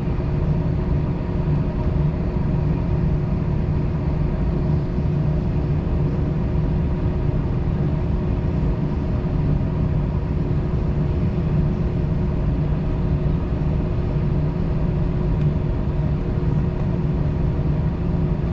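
Steady low rumble in the cabin of an Airbus A321-231, its IAE V2500 engines at idle before takeoff, with a couple of faint steady whining tones over the rumble.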